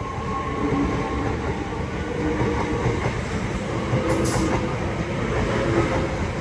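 Southeastern Class 376 electric multiple unit running through the station: a steady rumble of wheels on rail with faint humming tones that shift in pitch, and a brief high hiss about four seconds in.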